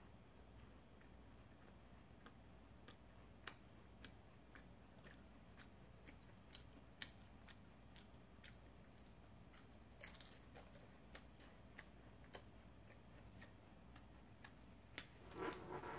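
Quiet chewing of flaky, chocolate-coated puff pastry, heard as scattered small crisp crackles, with a louder crunch near the end.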